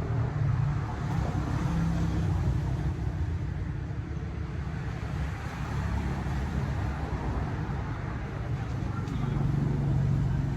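A motor vehicle's engine running steadily as a low rumble, with road noise over it.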